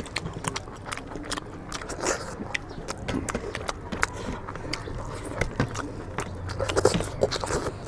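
People eating chicken curry and rice, with a steady run of irregular wet chewing and mouth clicks.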